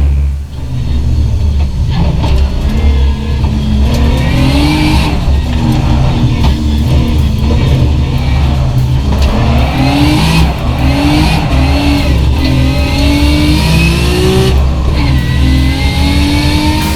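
Race car engine accelerating hard, its pitch climbing and dropping back several times as it shifts up through the gears, over background music with a heavy bass line.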